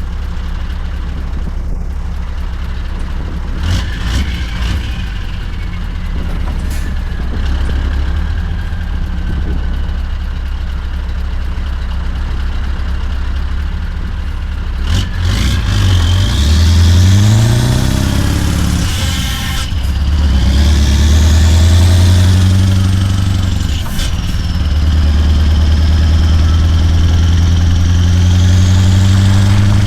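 Scania V8 truck engine running at a steady low idle, then about halfway through pulling away and accelerating through the gears. Its note climbs in pitch, drops back at two gear changes, and climbs again.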